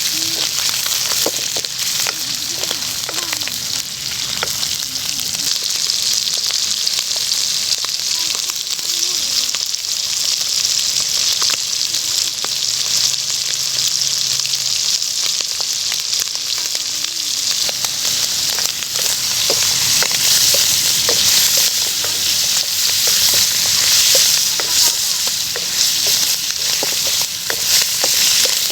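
Beef liver frying in hot oil: a steady, loud sizzle with scattered crackles and the occasional stir of a utensil. The sizzle grows a little louder about two-thirds of the way through.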